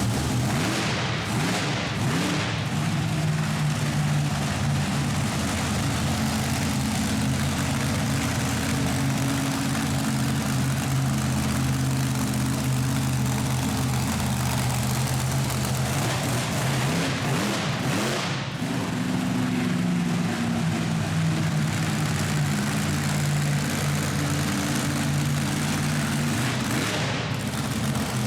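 Monster truck engine running steadily at light throttle, its pitch shifting a little up and down as it drives.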